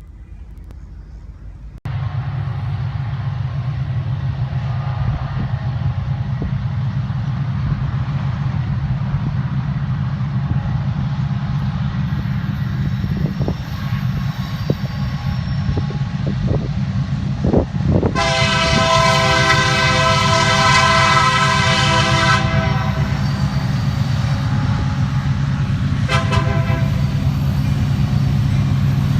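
Union Pacific diesel freight locomotives rumbling steadily as a gravel train approaches, slowly growing louder. The air horn sounds one long blast about two-thirds of the way through, then a shorter one near the end.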